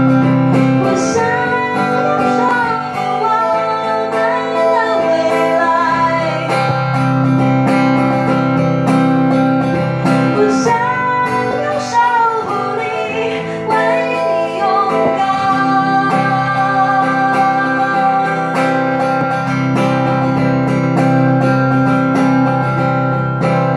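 Live acoustic guitar strummed steadily through a song's wordless instrumental passage, with a wavering melody line over it in two stretches, early and around the middle.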